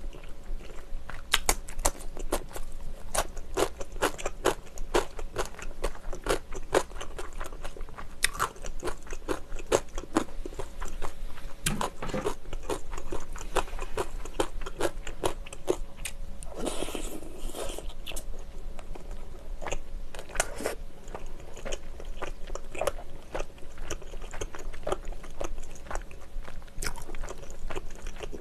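Close-miked eating: a person chewing and biting spicy tteokbokki, with many short wet mouth clicks and crunchy bites.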